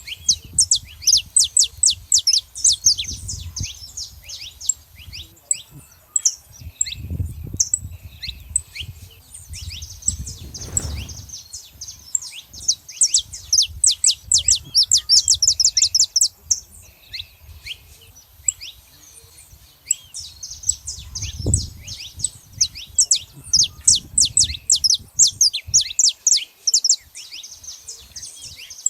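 A flock of saffron finches chirping and singing together: a dense stream of rapid, high chirps with a few short lulls, over a low rumble with a couple of dull thuds.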